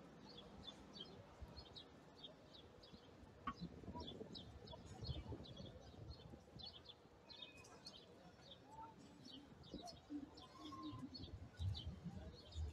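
Faint, rapid high chirps of small birds, several a second, over the low murmur of a crowd.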